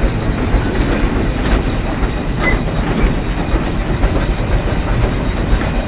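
Heisler geared steam locomotive running along the track, heard from the cab: a steady, loud rumble and rattle of the engine and its wheels on the rails.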